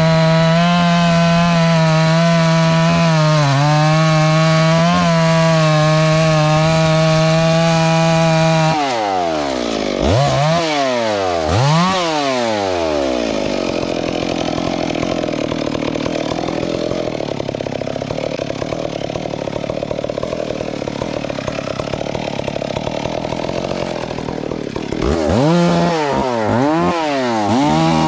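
Two-stroke chainsaw running at a steady high speed for about nine seconds, then revved up and down several times in quick succession. It settles into a lower, rougher running sound and is revved up and down again near the end.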